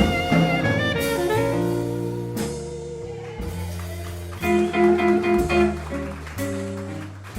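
Small jazz band playing a blues live: saxophone, bass and drums, with guitar chords coming in strongly about four and a half seconds in.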